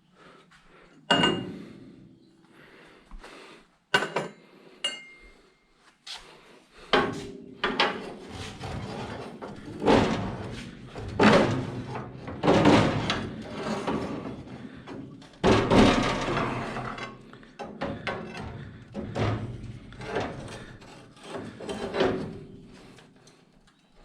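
Irregular knocks and clattering of hand tools striking and shifting against car sheet metal: a few sharp single knocks, then a busier run of blows and clatter through most of the stretch.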